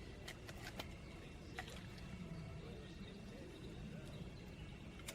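A few faint sharp snaps and clicks of twigs and firewood being handled and broken while a small campfire is started, over a quiet low background.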